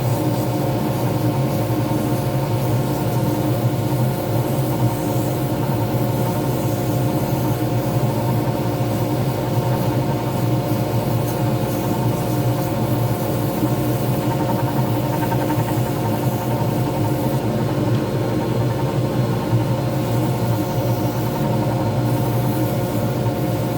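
Pen-turning lathe motor running at a steady speed, a constant hum with no change in pitch.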